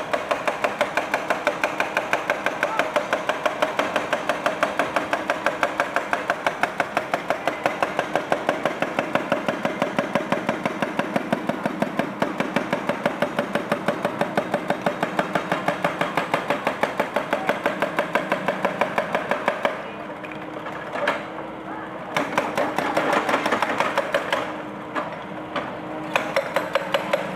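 Excavator-mounted hydraulic breaker hammering a concrete monument in a rapid, even rhythm. It stops about twenty seconds in and starts hammering again near the end.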